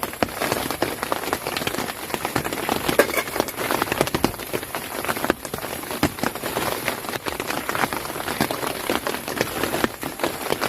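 Steady rain falling on a tent, a dense, irregular run of drop hits.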